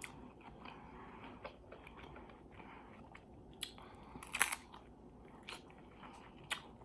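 Close-miked chewing of food with a few sharp crunches and wet mouth clicks, the loudest about four and a half seconds in.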